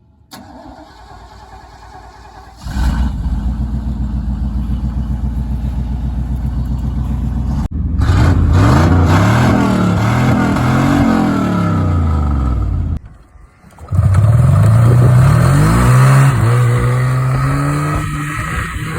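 Yamaha Phaser snowmobile's two-stroke engine on a cold start: it comes in suddenly about three seconds in and runs at a steady idle. From about eight seconds it is revved up and down several times, drops away for about a second, then is revved again and held high.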